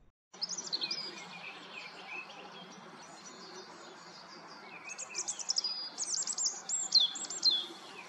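Several songbirds singing together: quick chirps, trills and sharp down-sweeping whistles over a steady background noise. It starts suddenly, and the song gets busier and louder from about five seconds in.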